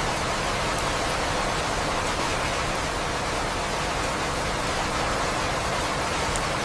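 Steady rain falling, an even wash of noise with no breaks.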